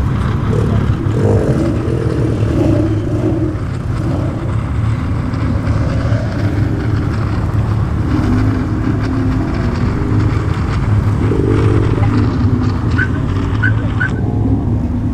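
Car engine running steadily with road noise, a continuous low drone without clear revving. Three short high chirps come near the end.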